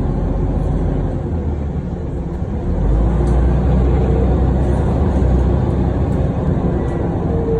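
Scania OmniCity single-deck bus heard from on board, its engine and running noise rumbling; about three seconds in the low engine note grows louder as the bus pulls harder.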